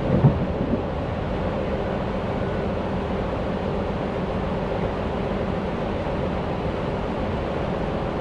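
Electric passenger train running at speed, a steady rumble of wheels and running gear heard from inside the carriage, with a short low thump just after the start.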